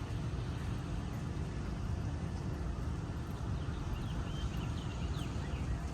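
Steady city street ambience: a continuous low rumble of traffic, with no distinct events standing out.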